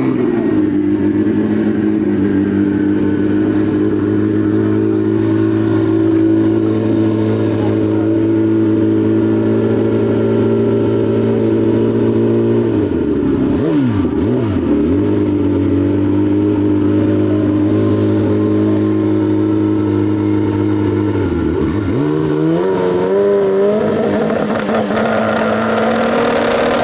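An engine running at a steady pitch, which drops and climbs back twice: once about halfway through and again about two-thirds of the way in.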